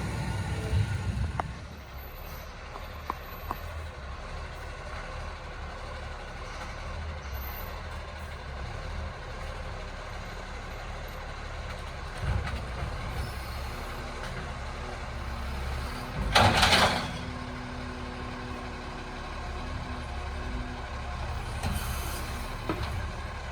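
Recycling garbage truck's diesel engine running with a steady low rumble, and a short, loud hiss of air brakes about two-thirds of the way through.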